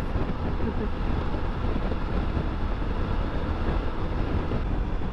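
Triumph Tiger 900 GT inline-three motorcycle cruising at a steady speed, its engine and the rush of wind and road noise holding an even, unbroken level.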